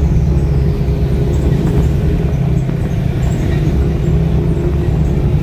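Car engine pulling steadily up a steep incline, heard from inside the cabin as a steady low drone.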